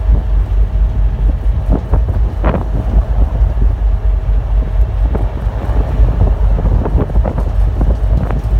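Strong wind buffeting the microphone aboard a moving ferry, a loud uneven rumble that rises and falls with the gusts.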